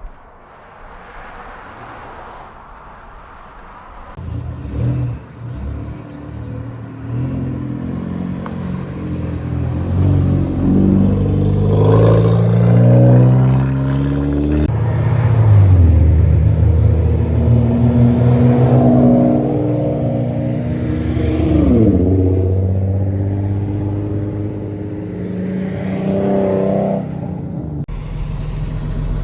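Car engines running and revving, their pitch rising and falling again and again. The sound is quiet at first and grows louder after about four seconds.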